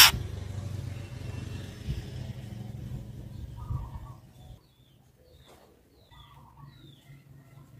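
Faint short chirps and brief whistled notes of a female white-rumped shama, scattered through the second half, over a low hum that fades out about halfway through.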